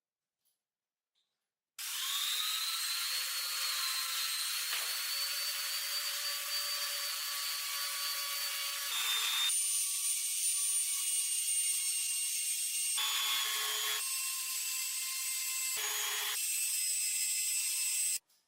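A small high-speed electric power tool switching on about two seconds in, its whine rising as it spins up, then running with its pitch shifting several times under changing load, and switching off suddenly just before the end.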